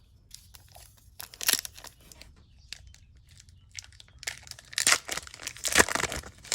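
Plastic-foil wrapper of a 2021-22 Upper Deck Series 1 hockey card pack crinkling and tearing as it is opened, in short crackly bursts about a second in and again more densely from about four seconds in.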